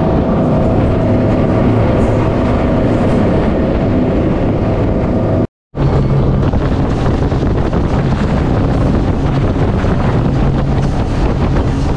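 Yamaha V8 outboards on a 40-foot center-console boat running at speed: a steady engine drone over rushing water, with heavy wind on the microphone. The sound drops out for a split second about halfway through, then carries on with a slightly different engine pitch.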